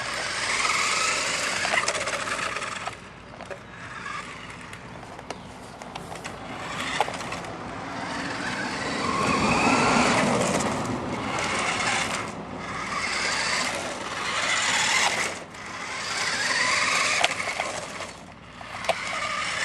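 Radio-controlled car driving about, its motor speeding up and slowing in repeated swells, with tyres scraping and squealing.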